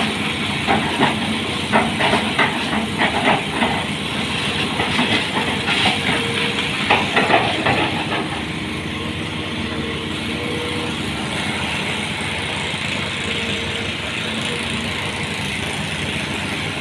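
Heavy diesel vehicle engine running steadily, with irregular metallic clanks and knocks over the first half that then die away.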